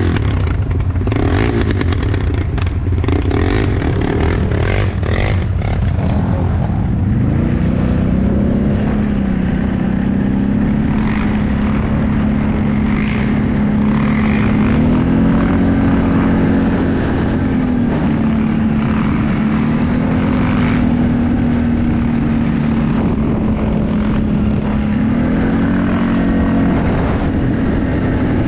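Off-road vehicle engine running under way, a rough clattering stretch for the first several seconds, then a steady hum whose pitch steps up and down several times as the throttle changes.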